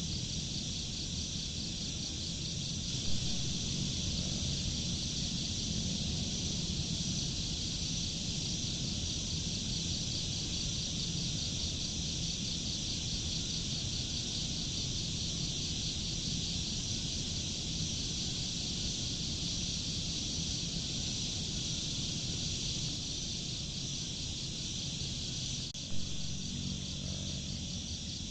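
Insects chirping in a dense, steady chorus, with a fine even pulsing high up, over a steady low rumble. Two brief knocks stand out, about three seconds in and near the end.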